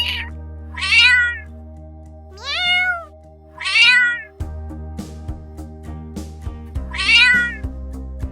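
Domestic cat meowing four times, each call rising then falling in pitch, over background music with sustained notes and a light beat that comes in about halfway through.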